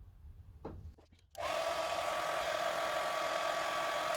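Hand-held electric hair dryer switched on about a second and a half in and running steadily with a constant whine, then cut off at the end, drying a test dab of mixed paint to check its colour.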